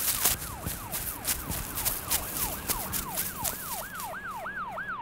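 Police siren wailing in a fast rise-and-fall yelp, about three sweeps a second, growing clearer toward the end. Under it are rapid sharp clicks that fade out about four seconds in.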